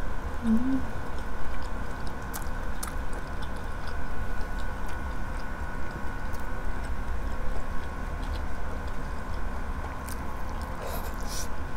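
Close-miked chewing of grilled chicken inasal and rice eaten by hand, with short wet mouth clicks and smacks, over a steady low hum. A short hummed "mm" comes about half a second in.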